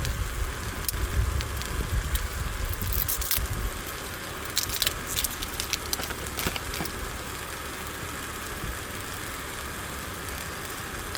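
Beef steak sizzling in a pan on a camping stove: a steady hiss with scattered crackles. Wind rumbles on the microphone for the first few seconds.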